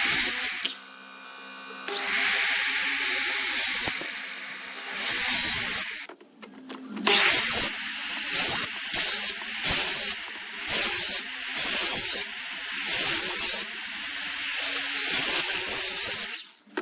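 Power tool working wood, running in spells of several seconds with brief pauses, about a second in and again around six seconds in.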